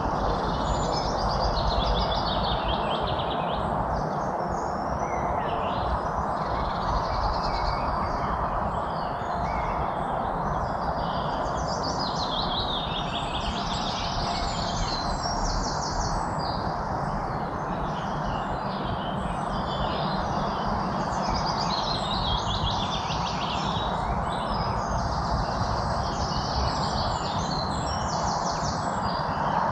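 A chorus of many songbirds chirping and trilling over one another without pause, over a steady rushing background noise.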